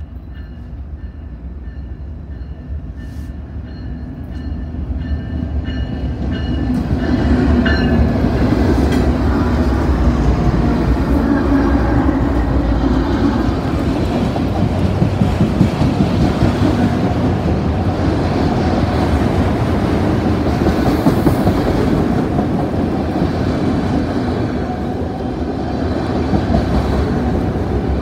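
Train rolling past close by: a low rumble with a faint high whine at first, growing louder over the first several seconds into a steady, loud rolling noise with wheels clattering over the rail joints.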